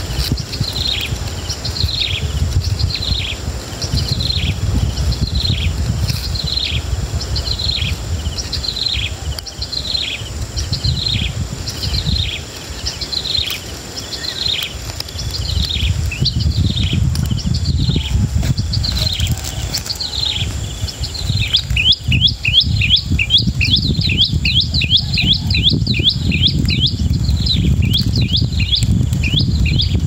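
A bird's repeated short, high chirps, each falling in pitch, about two a second, quickening to about four or five a second some twenty seconds in, over a steady low rumble.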